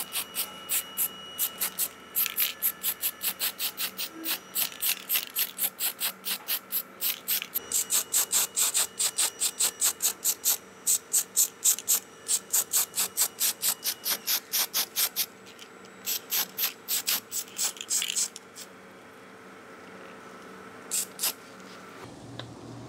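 Ratchet wrench clicking in quick, even strokes, about four or five clicks a second, tightening a fastener. The clicking stops near the end, and two last clicks follow.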